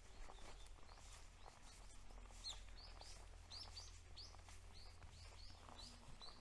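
A small bird calling: a quick run of short, high chirps, about three a second, beginning about two and a half seconds in.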